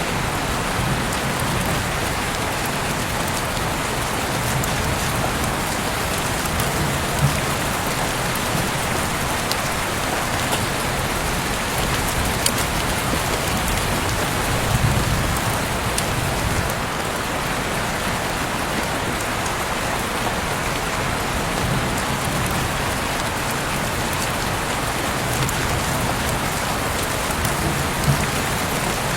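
Heavy rain falling steadily, a dense even hiss with scattered sharp drop impacts and a faint low rumble underneath.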